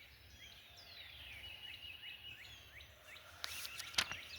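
Birds singing: a series of quick falling whistled notes and short chirps. Near the end there is a brief hiss and a sharp click.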